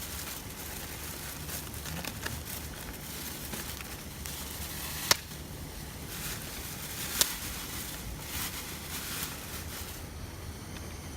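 Wood campfire crackling, with many small ticks and two sharp pops about five and seven seconds in.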